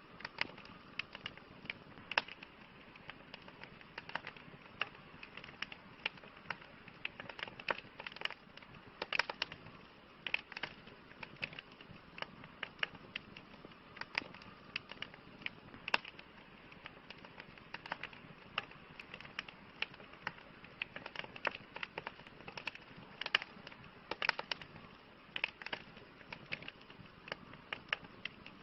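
Campfire crackling: irregular sharp pops and snaps of burning wood over a steady low hiss.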